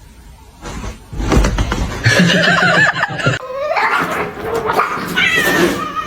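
A cat yowling: a run of loud, drawn-out wavering cries starting about two seconds in, after a low rumble.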